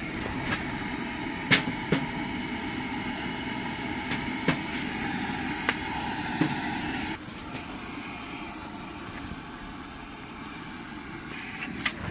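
Heavy rain falling steadily, with a handful of sharp taps scattered through it. The rain noise drops a step in level about seven seconds in.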